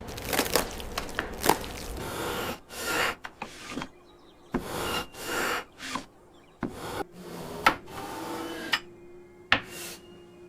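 Irregular wooden knocks, clicks and rubbing, as objects are handled and set down on wood, with two sharper clicks late on.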